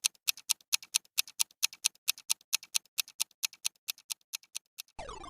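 Clock-style countdown ticking, about five even ticks a second alternating strong and weak. Near the end it stops and a falling run of tones begins.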